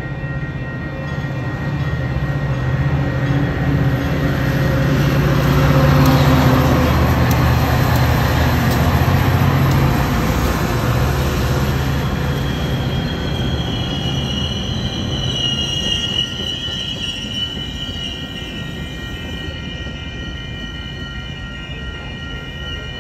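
A train passing close by: a low rumble with a steady low hum builds to its loudest about six seconds in and then eases. From about thirteen seconds in, a high, wavering wheel squeal sounds over the rolling of the cars.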